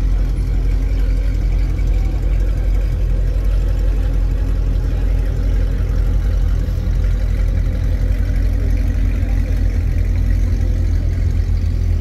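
Car engine idling steadily, a low, even rumble with no revs.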